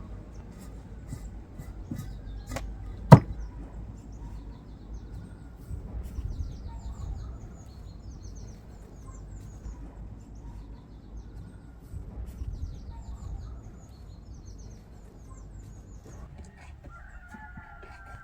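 Outdoor farmyard sounds: small birds chirping faintly and domestic fowl calling, with a drawn-out call near the end. A single loud, sharp knock stands out about three seconds in.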